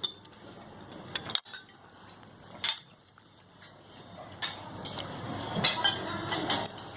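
Cutlery and dishes clinking on a dining table while people eat: scattered light clicks and clinks, coming more often in the second half.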